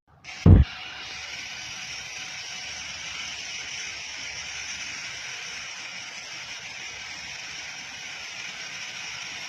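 A single loud thump about half a second in, then a steady hiss of rushing water.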